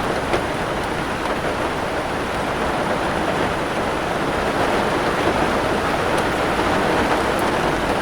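Steady rain falling, a dense, even hiss with no separate drops standing out, and a single light tick about a third of a second in.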